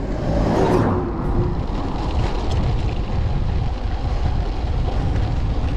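Wind buffeting the microphone with steady low rumble during a downhill bike ride, with a faint engine-like hum in the first second or so.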